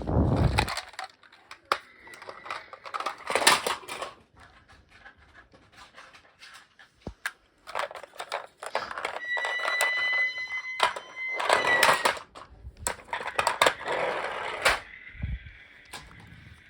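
Small plastic toy trucks clattering and rattling as they are handled and rolled, with a steady high electronic tone from a toy for about three seconds in the middle and a thin high whir near the end.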